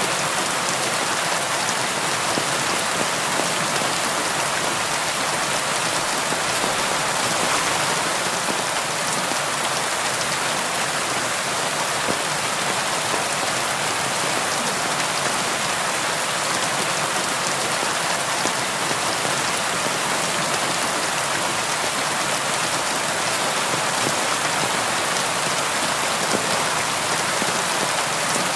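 Steady rain falling, a dense even patter of drops with no thunder or gusts.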